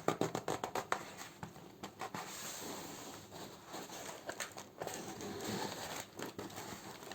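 Plastic and paper packaging crinkling as candles are handled: a quick run of small crackles in the first couple of seconds, then softer, steadier rustling.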